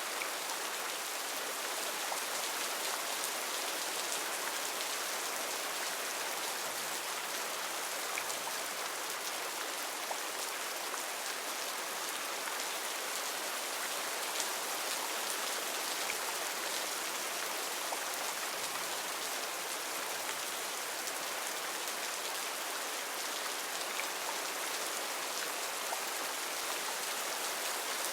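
Heavy rain falling steadily, a dense even hiss of drops with faint individual drop ticks scattered through it.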